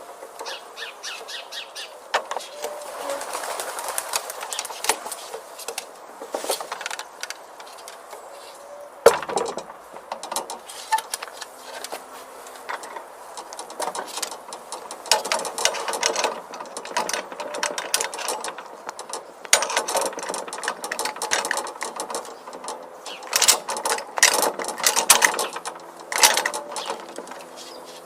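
A parrot working at locks: irregular clicks, knocks and rattles of the lock parts being handled.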